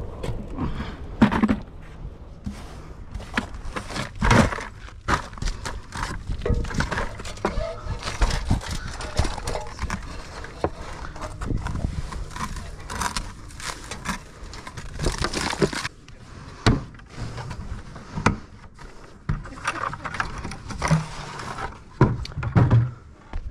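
Irregular clinks, knocks and scrapes of loose bricks and mortar being handled during hand demolition of a brick chimney.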